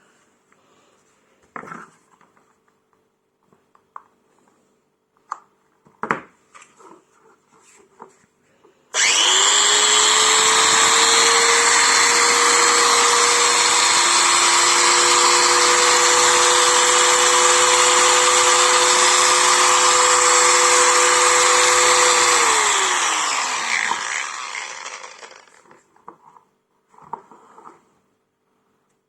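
Bosch angle grinder switched on about nine seconds in, spinning up quickly to a steady high whine and running for about thirteen seconds, then switched off and winding down with a falling pitch. Scattered handling clicks and knocks come before the start and after the stop.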